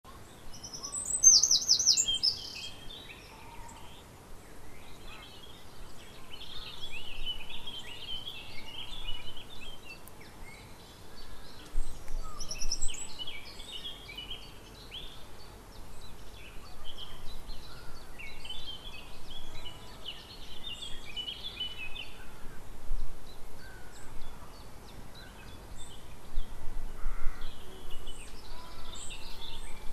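Songbirds singing and calling over a faint steady background, in bursts of quick high chirps every few seconds, with a rapid run of high descending notes about a second in.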